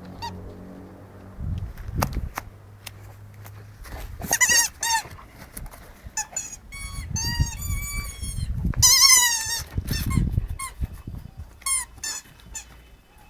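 Squeaky dog toy squeaking over and over as a Boerboel chews and squeezes it, in quick clusters of high, wavering squeaks, with low bumps and handling noise between.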